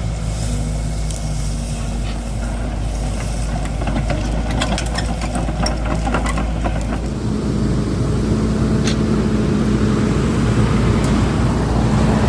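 Tractor-driven Heizohack wood chipper running steadily, with a burst of sharp crackling as branches are chipped about halfway through. About seven seconds in, the engine note rises and gets louder.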